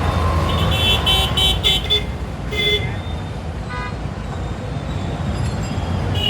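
Road traffic heard from a moving scooter: a steady low rumble of engine and wind, with a series of short vehicle horn toots in the first two seconds and another brief toot a little later.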